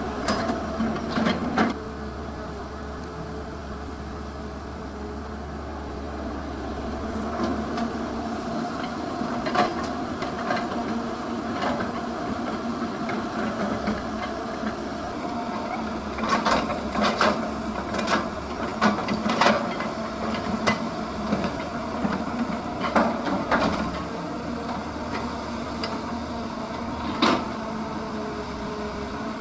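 Heavy earthmoving machinery's diesel engine running steadily, with scattered sharp metallic clanks and knocks from the working machine, coming thickest in the second half.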